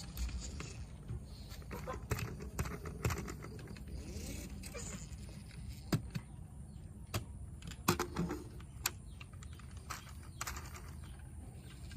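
Scattered light clicks and clatter of small toy vehicles being handled, over a steady low rumble.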